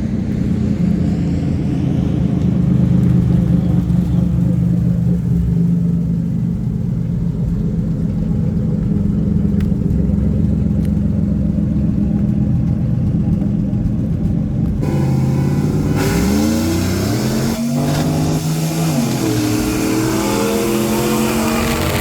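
A vehicle engine running with a steady low drone, then, after an abrupt change about fifteen seconds in, an engine revving up and back down.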